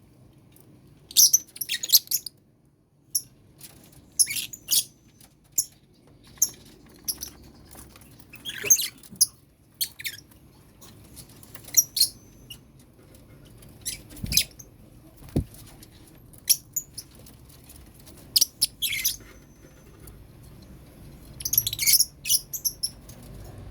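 Several lovebirds giving short, shrill, high-pitched chirps and screeches in quick, irregular succession, with two dull low knocks in the middle.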